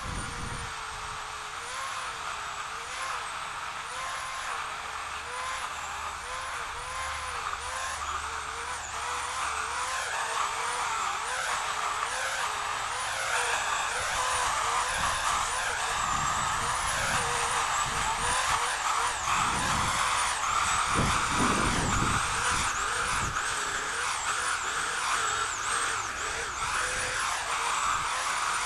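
Chainsaw running at high speed, cutting: its pitch dips and recovers again and again, about once a second, as the chain takes load. There are a few low thuds around twenty seconds in.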